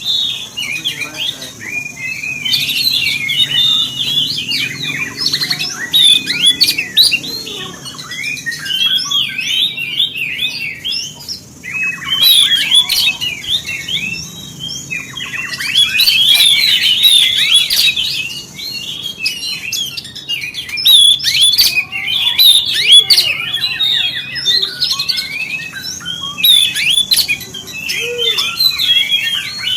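Oriental magpie-robin (kacer) singing a fast, continuous stream of varied whistles and chirps, with a few short pauses.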